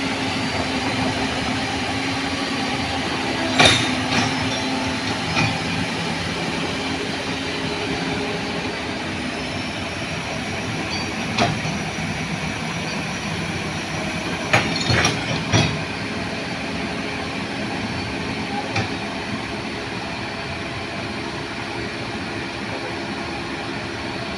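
Heavy diesel machinery running steadily, with a few sharp metallic clanks, a small cluster of them about two-thirds of the way through.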